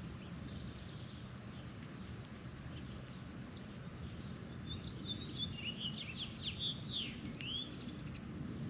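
A bird calling a quick run of short chirps, starting about halfway through and ending on a falling note, over a steady low background rumble.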